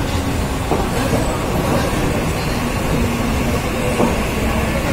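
Mumbai suburban EMU local train standing at the platform, giving a steady hum and rumble with a couple of faint knocks.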